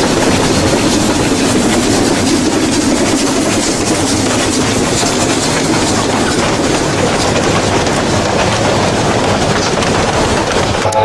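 Steam train running along the track: a steady rumble and rattle of wheels and cars on the rails.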